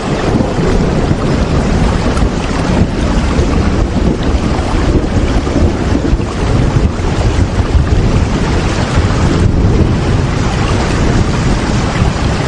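Steady, loud rain, an even wash of noise that is heaviest in the low end, without pause or change.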